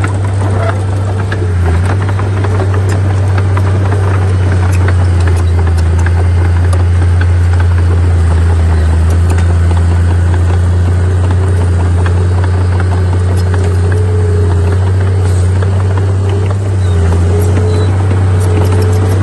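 Diesel engine of heavy earthmoving machinery running steadily: a deep constant drone with a higher tone that wavers slightly in pitch, and scattered light clanks.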